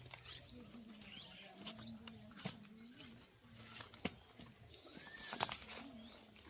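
Faint scattered clicks and light knocks of sticks and stones being handled, the sharpest about four seconds in and again about five and a half seconds in, with birds chirping faintly in the background.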